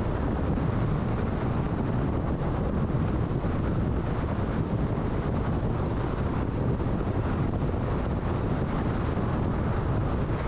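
Steady road noise of a car cruising at freeway speed: an even rush of tyre and wind noise that holds constant throughout.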